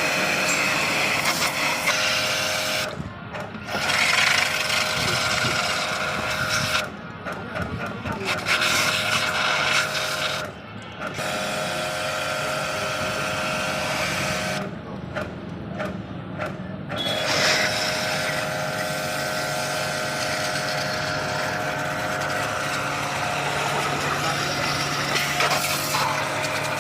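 High-pressure washer spraying water over a vehicle engine: a steady hiss of the jet with the washer's motor humming under it. The spray stops briefly four times and starts again.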